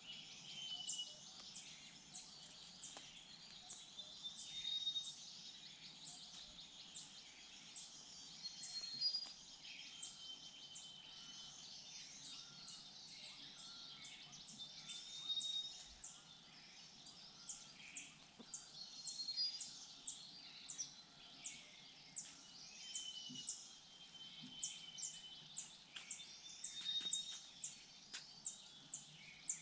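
Forest birds calling: many short, high, quickly falling chirps, several a second, with drawn-out whistled notes every few seconds.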